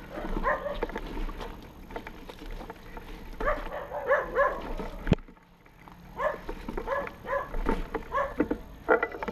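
Dogs yipping and barking in repeated short, high calls, coming in clusters, with one sharp click and a brief drop in sound about five seconds in.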